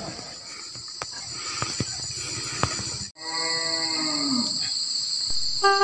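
A cow mooing once after a short gap, a call of about a second that slides down in pitch, over a steady high-pitched insect drone. A few light clicks come before it, and a run of musical notes starts near the end.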